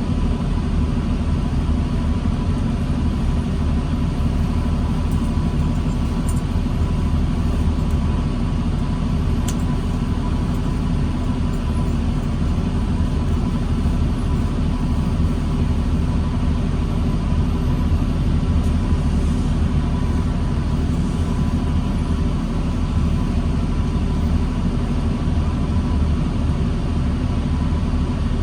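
New Flyer D40LFR diesel transit bus running steadily: a continuous low rumble with a faint steady whine above it.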